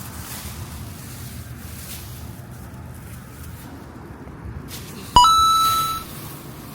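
A single sharp metallic strike about five seconds in, ringing with a few clear tones for under a second before it is cut short, over a steady low rumble of outdoor background noise.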